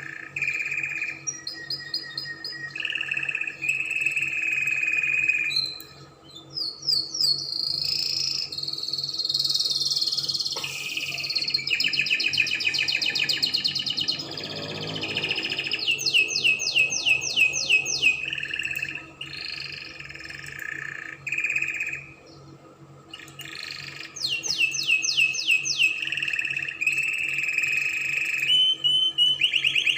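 Spanish Timbrado canary singing: phrases of held, clear whistled notes alternating with fast, evenly repeated trills, with brief pauses about six seconds in and again a little past twenty seconds.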